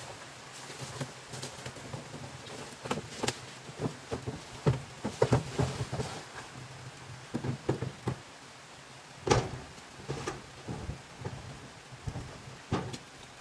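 Heavy rain falling steadily, with irregular knocks and rustling crackles over it, thickest about three to six seconds in, with a sharp knock near nine seconds and another near the end.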